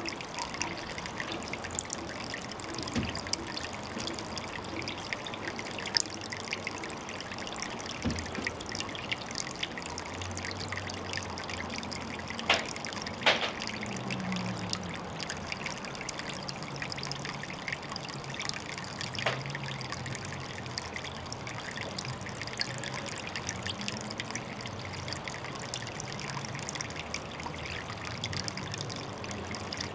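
Water trickling steadily into a pond. A few sharp ticks stand out, two close together about halfway through and one a few seconds later.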